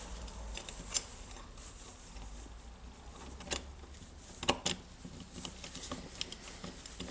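Scattered light clicks and knocks of small metal parts being handled and fitted together during reassembly of a Makita DHR202 rotary hammer's gear mechanism and aluminum cylinder. The sharpest knocks come about a second in, then near the middle as a close pair.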